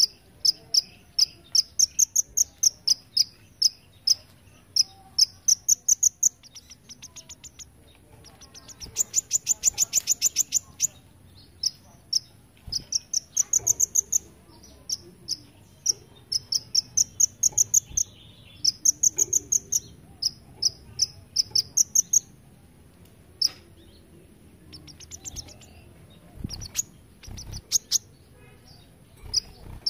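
Kolibri ninja (olive-backed sunbird) singing a long run of short, high, quickly repeated chirps and rapid trills, the 'belalang emas' (golden grasshopper) style of song prized in songbird contests. A steady, thin, insect-like high tone runs under it.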